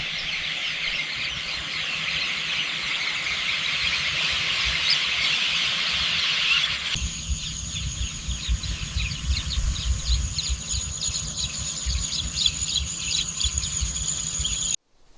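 Countryside ambience of birds and insects calling: a dense high chorus that changes abruptly about seven seconds in to a steady high whine with short chirps over a low rumble, cutting off suddenly near the end.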